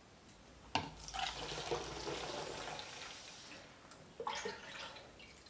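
Liquid soap poured from a ladle into a bottle, splashing for a couple of seconds. A sharp knock comes just before the pour and another about four seconds in.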